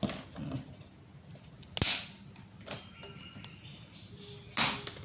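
Cutting pliers snipping the packaging of a cardboard carton: two loud sharp snaps, about 2 s and 4.5 s in, with smaller clicks and rustling between.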